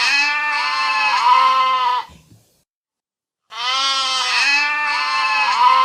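Goat bleating: a long, wavering bleat broken into a few pulses, then after about a second's pause the same call again.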